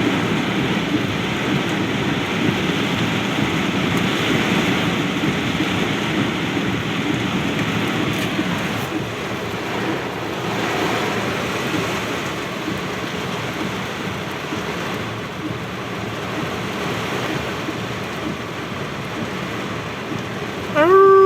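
Heavy tropical downpour: steady, loud rain. Just before the end a short pitched cry rises briefly above the rain.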